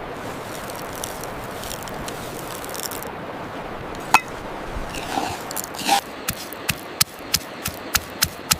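Peppercorns being ground in a mortar with a pestle: a steady gritty grinding, then from about six seconds in, sharp regular strikes about three a second as the pestle pounds them.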